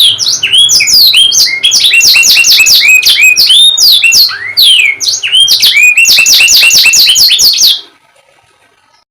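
Domestic canary singing a fast, unbroken run of high, quick downward-sweeping chirps and trills, which stops abruptly near the end.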